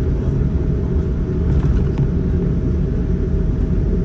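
Steady low rumble of a Boeing 787-9's engines and airframe heard inside the passenger cabin, with a faint steady tone over it.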